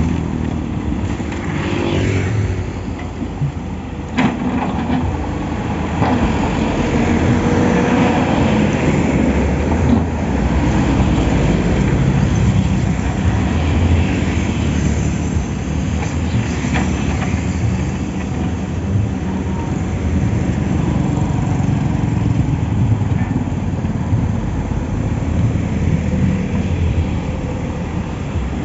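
Steady, loud low rumble of a diesel excavator working on road repairs, mixed with passing road traffic, with a few short sharp knocks.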